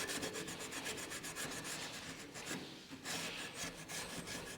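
Small abrasive pad scrubbing paint overspray off a metal lathe bed in quick back-and-forth strokes, with a short pause a little past halfway.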